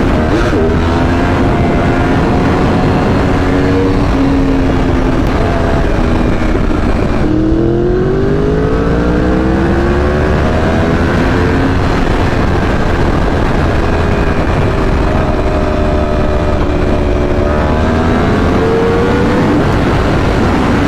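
High-performance vehicle engine running hard at speed over steady road and wind rush. About seven seconds in the pitch drops, then climbs steadily for several seconds as it accelerates, and it rises again near the end.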